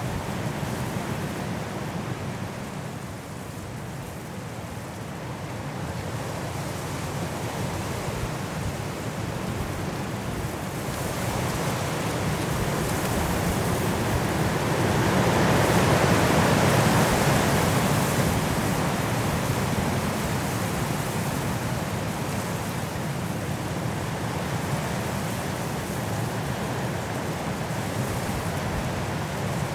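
Strong wind blowing through trees in a snowstorm, a steady rushing that dips early, then swells to a loud gust about halfway through and eases off again.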